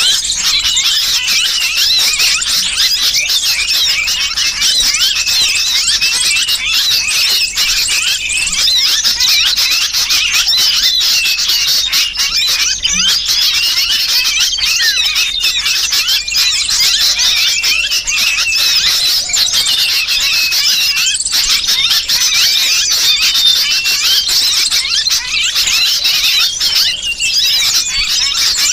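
Dense, continuous chatter of agitated small birds: a bird-lure recording of a sooty-headed bulbul's distress calls, as if trapped, layered with a chorus of noisy small birds, many quick high-pitched calls overlapping without pause.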